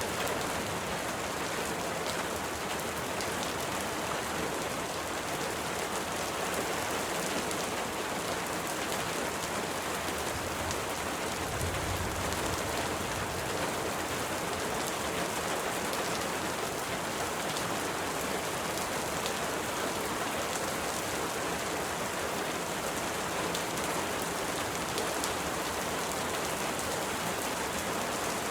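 Steady rain against window glass, a continuous wash with many individual drops ticking. A brief low rumble comes about halfway through.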